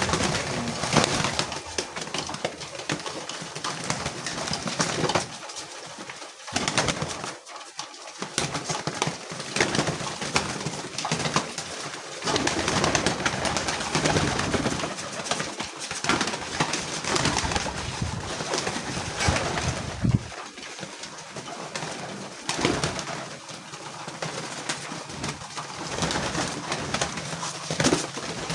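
A flock of homing pigeons cooing while scrambling for corn at feeding time, over a constant busy clatter of short clicks and rustles.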